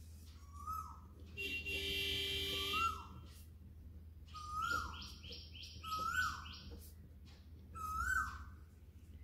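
Birds calling: a short rising-then-falling chirp repeated about five times, and a quick run of about seven fast higher notes midway. A longer sustained call of about a second and a half comes near the start, over a faint steady low hum.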